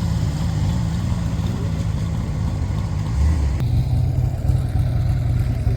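Motorcycle engine running with a steady, pulsing low exhaust rumble; its note shifts about three and a half seconds in.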